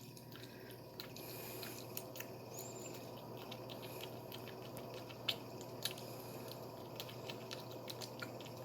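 A cat lapping up and eating soft soup cat food, heard as a string of faint, irregular wet clicks and smacks.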